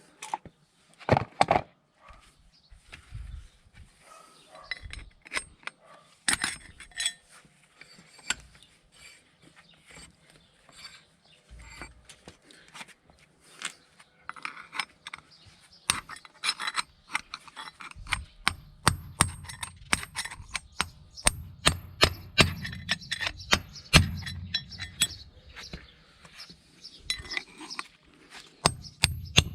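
Metal tools and parts clinking and tapping against each other, then from about 18 seconds in a steady run of sharp hammer strikes on metal, about one or two a second, while working on a car's front wheel hub and bearing.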